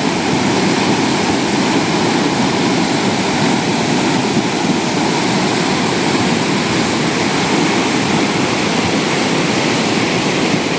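Fast-flowing floodwater in a hill stream, a loud, steady rushing of water.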